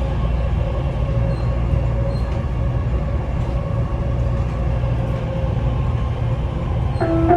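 Dubai Metro train running steadily between stations, heard from inside the carriage: a constant low rumble with a faint steady whine. Near the end a short electronic chime starts, the signal for the next-station announcement.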